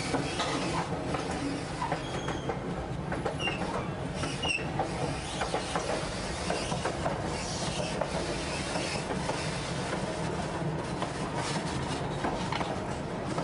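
White Pass & Yukon narrow-gauge passenger train rolling along, heard from aboard a car: a steady rumble of wheels on rail with rapid clicking over the track. A few brief high squeaks come about three to four and a half seconds in.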